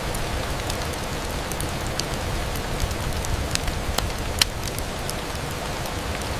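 Steady rain on a window pane, an even hiss with scattered sharp ticks of single drops; one tick about four and a half seconds in is louder than the rest.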